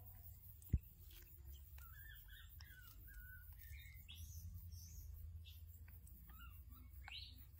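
Faint, scattered bird chirps and tweets over a low steady rumble, with one sharp click just under a second in.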